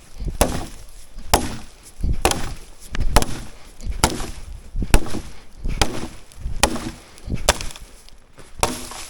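Axe chopping a log for firewood, about ten blows spaced roughly a second apart, each a sharp knock into the wood.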